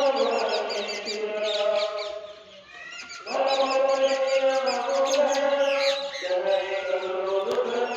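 Birds calling: many quick high chirps over a layer of held, overlapping lower tones. The sound fades to a lull about two and a half seconds in, then picks up again.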